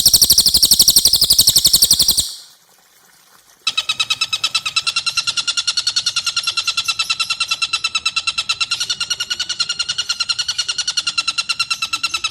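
Bird calls from a masteran recording: a loud, very high, rapid trill for about two seconds, then, after a short pause, a long steady chatter of fast, evenly repeated notes, the tengkek buto's long cackle (ngekek panjang).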